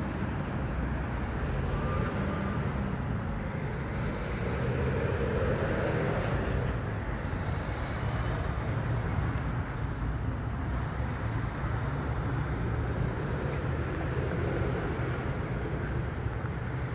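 Steady road traffic noise with a constant low rumble, swelling slightly about five seconds in.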